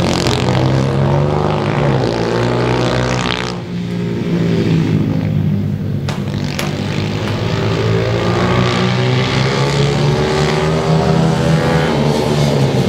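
Small single-cylinder pit bike engines running and revving, the pitch rising and falling as the bikes ride around. The sound eases off a little past three seconds in, then builds again.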